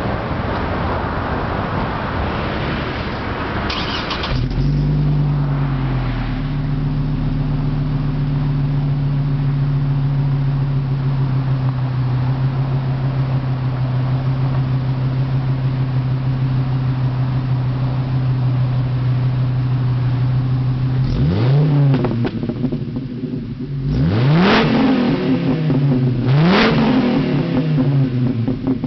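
Exhaust of a 2008 Chevy Colorado's 3.7-litre inline-five, warmed up. After about four seconds of rushing noise the engine idles steadily, then near the end it is revved in four quick blips, each pitch rising and falling back.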